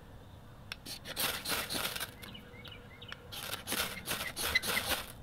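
A knife's 90-degree spine scraped hard down a ferro rod to throw sparks onto wood scrapings, in two runs of quick rasping strikes. Faint bird chirps sound in the background.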